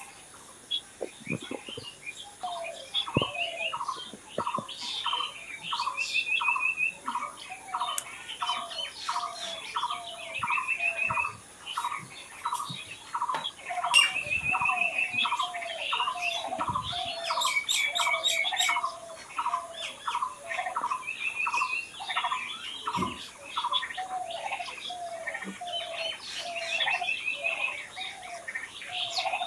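Several birds singing together. One bird repeats a low note steadily, two or three times a second, another gives a short trill every few seconds, and scattered higher chirps are heard over them.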